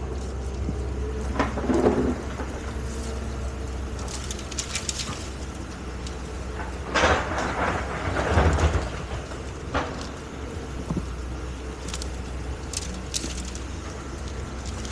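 Excavator's diesel engine running steadily, with two louder rough bursts of noise from the machine's work, about two seconds in and again from about seven to nine seconds in.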